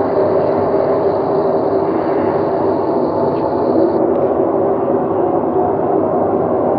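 A loud, steady, low drone with several held tones over a rumble, of the kind reported as a mysterious sound from the sky.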